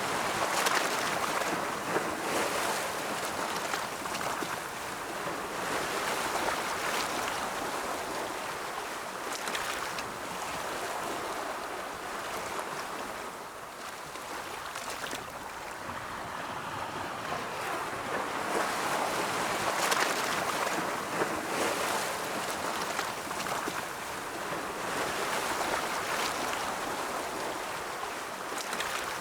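Ocean surf: a continuous wash of waves breaking and rolling in, swelling and easing every few seconds.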